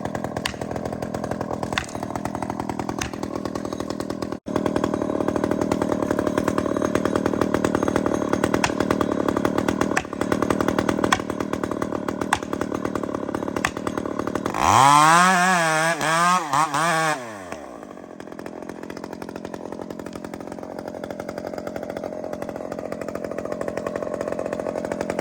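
Chainsaw running steadily, then a loud burst of throttle about fifteen seconds in, the engine pitch wavering up and down for a couple of seconds before it drops back to a quieter idle.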